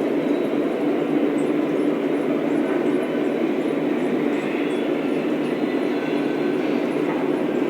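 Lionel O-scale model train running on its track: a steady sound of motors and wheels rolling, with faint regular ticks.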